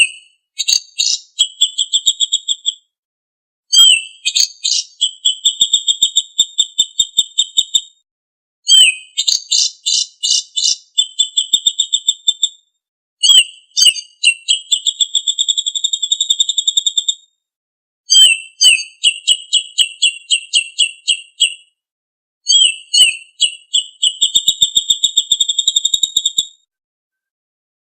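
A songbird singing the same high-pitched song phrase six times, about every four and a half seconds. Each phrase opens with a few sharp notes and runs into a fast, even trill, with short silent pauses between phrases.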